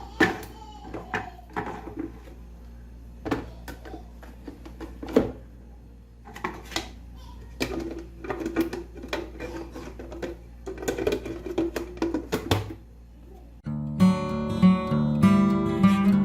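Scattered knocks and clicks of handling in a kitchen, with faint voices, then strummed acoustic guitar music that starts abruptly near the end.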